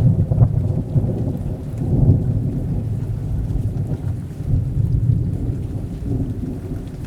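Steady rain with thunder rumbling low underneath, the rumble swelling loudest right at the start and again about two seconds in.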